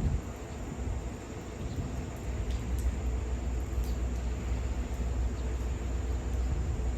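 Steady low rumble of a container freight train running on the line, with insects chirring in a steady high note.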